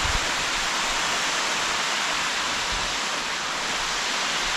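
Steady rushing hiss of water pouring through a dam's outlet.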